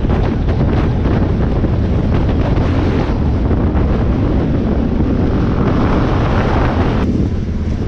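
Heavy wind noise buffeting the microphone of a moving motorcycle, a steady low rumble with hiss above; the hiss drops away suddenly near the end.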